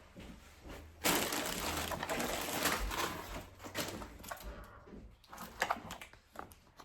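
Grocery packaging crinkling and rustling as items are handled, loudest for about three seconds starting about a second in, then lighter scattered crackles.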